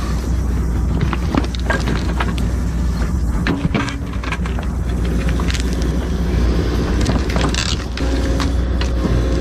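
Excavator's diesel engine running steadily under load, with repeated sharp knocks and cracks as a stump and its roots are worked loose. The sound cuts off abruptly at the end.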